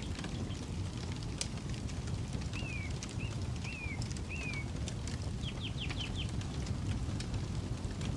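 Campfire crackling with scattered sharp pops over a steady low rumble. A bird calls through it: four short down-slurred calls a few seconds in, then a quick run of five rapid notes near the middle.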